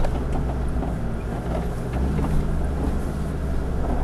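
A four-wheel-drive's engine running steadily, a low hum with no sudden changes.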